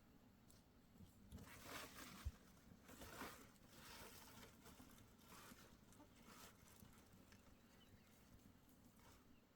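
Near silence with a few faint rustling, swishing noises and one soft knock a little over two seconds in.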